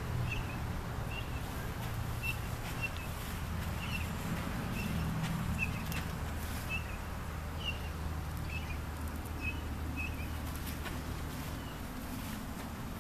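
A bird chirping over and over, short chirps about every half second that stop about eleven seconds in, over a low steady rumble.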